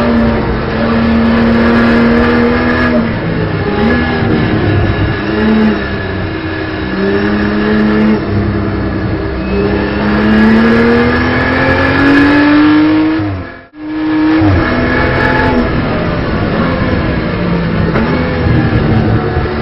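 Race car's turbocharged straight-six heard from inside the cockpit, the engine note climbing under acceleration and dropping back at gear shifts and on lifting off, over and over. The sound cuts out almost completely for a moment about three quarters of the way through, then the engine picks up again.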